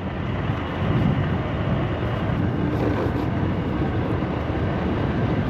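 Road traffic noise: a steady low rumble of motor vehicles, swelling about a second in, heard from a moving scooter.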